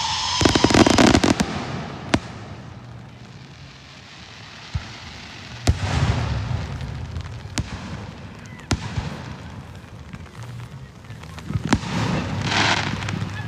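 Fireworks display going off: a dense crackling cluster of reports in the first second or so, then single bangs every second or two.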